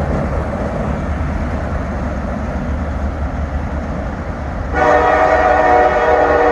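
Diesel freight train running with a low rumble; nearly five seconds in, the locomotive's air horn starts blowing, a loud steady blast that is still sounding at the end.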